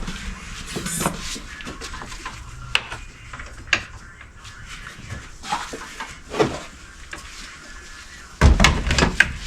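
Scattered clicks and light knocks of hand work with tools and parts, with a louder cluster of bumps and rustling near the end.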